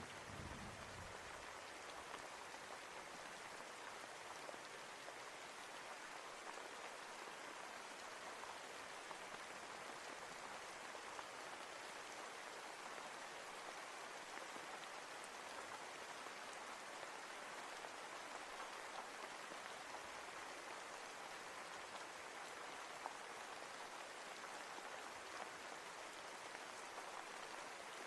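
Steady rain falling, an even hiss of many drops, with a brief low rumble right at the start.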